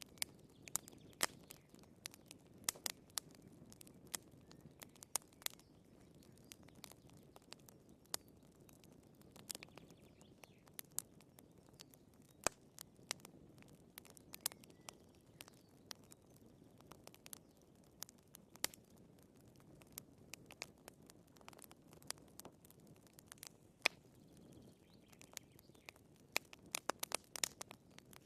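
Wood fire burning in a fireplace: irregular sharp pops and snaps of the firewood over a soft, low hiss of flames, with a quick flurry of pops near the end.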